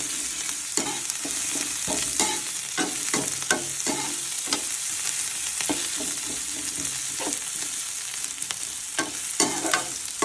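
Onions frying in oil in a karahi, a steady high sizzle, while a spatula stirs them, scraping and clicking against the pan several times a second at an uneven pace.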